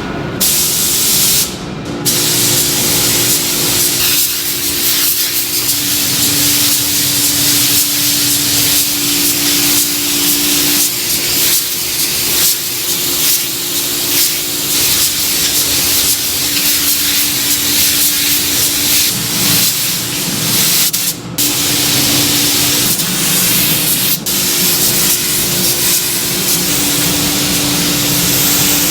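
Loud, steady hissing of factory machinery, like air or spray rushing, that cuts out for a moment a few times. Under it runs a steady low machine hum that switches on and off.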